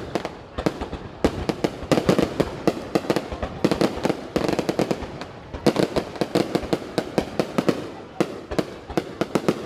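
Fireworks going off in rapid succession: a dense, continuous run of sharp bangs and crackles, thinning briefly twice before picking up again.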